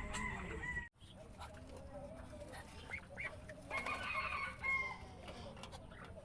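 Rooster crowing, one crow of about a second starting near the middle, with the tail of another crow cut off by a brief break in the sound just under a second in.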